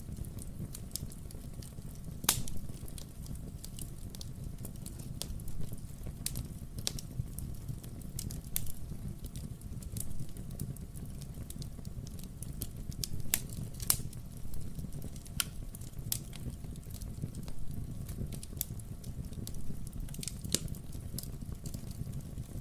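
Wood fire burning in a fireplace: a steady low rumble of the flames with irregular sharp crackles and pops from the burning logs, some louder pops standing out.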